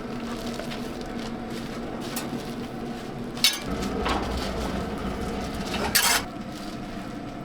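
Handling and knocking sounds over a steady low hum: a sharp knock about three and a half seconds in, then rumbling movement and a louder clatter about six seconds in.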